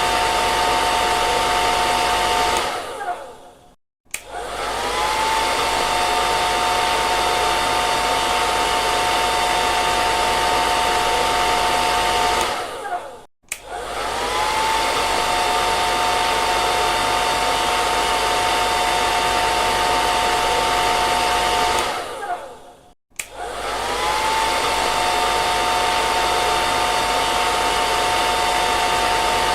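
Hair dryer blowing steadily, a rushing air noise with a steady motor whine. It cuts out briefly three times, winding down to near silence, and each time it starts again the whine climbs back up to pitch.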